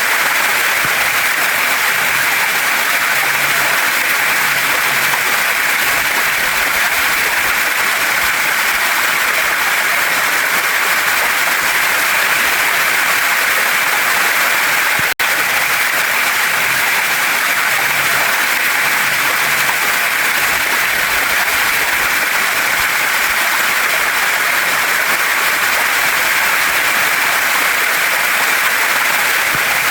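Waterfall and stream water running in a steady, even rush, cut by a momentary dropout about halfway through.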